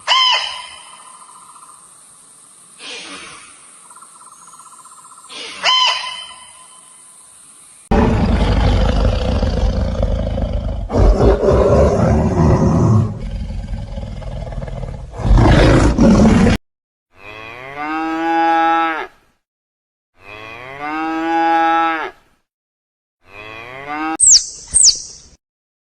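A run of different animal calls: a loud, low, rough call lasting about eight seconds, then two long pitched calls about two seconds each, and short high squeaks near the end.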